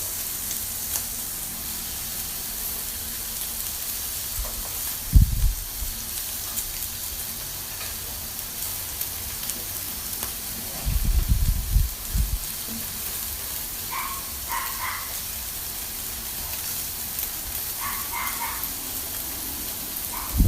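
Pork belly sizzling steadily on a hot grill, with a few dull low thumps about five seconds in and again around eleven to twelve seconds.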